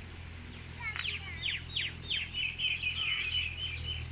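A bird singing: a run of quick downward-sweeping chirps starting about a second in, then a fast high trill, over a steady low hum.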